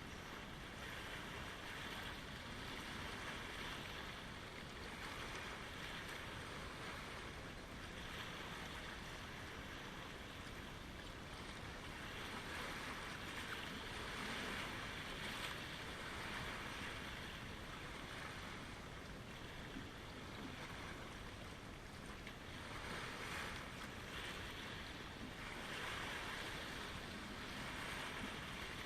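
Water rushing with waves washing in, a steady noise that swells and eases every two to three seconds.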